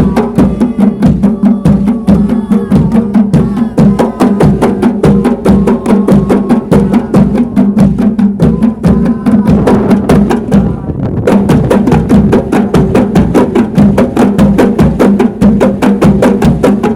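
Kompang frame drums played together by a troupe in a fast, steady, interlocking rhythm of many sharp hand strokes.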